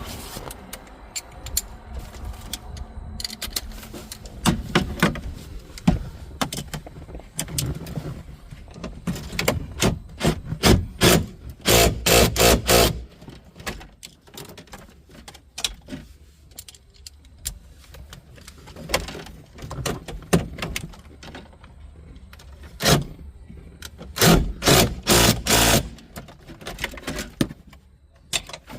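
Ratchet wrench clicking in quick runs as the steering column's 13 mm bolts are run in and tightened, with knocks and scrapes of tools and parts being handled; the densest clicking comes in two spells, near the middle and again near the end.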